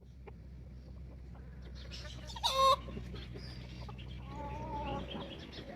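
Chickens clucking: a loud, short squawk a little before the middle, then a longer drawn-out call near the end, with softer chirps between. A steady low hum runs underneath.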